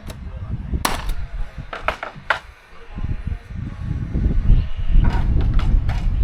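Timber roof framing under way: a handful of sharp knocks and clacks from working the timber, over a heavy low rumble that grows louder about halfway through.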